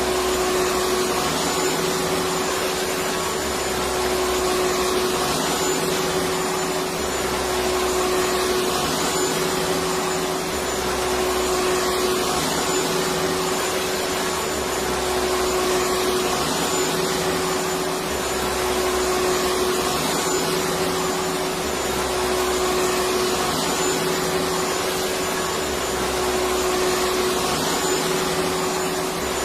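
Electric vacuum cleaner running steadily: a continuous even hiss with a steady hum, and a low rumble that swells and fades about every three and a half seconds.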